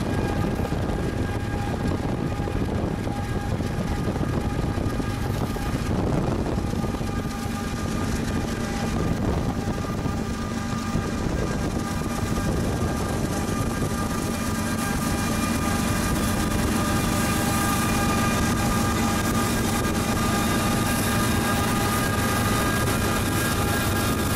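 Freight train rolling past: a steady, heavy rumble of rail cars on the track with a sustained high-pitched ringing tone over it.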